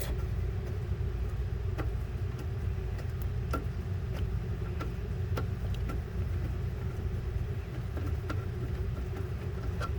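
A steady low machine hum, with faint scattered clicks on top of it.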